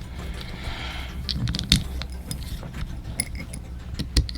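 Scattered light clicks and clinks of small plastic and metal parts being handled and screwed together as a motorised toy train's gearbox is reassembled.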